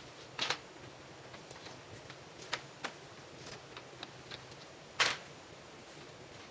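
Scattered, irregular sharp clicks and taps over a steady background hiss, the loudest about half a second in and about five seconds in.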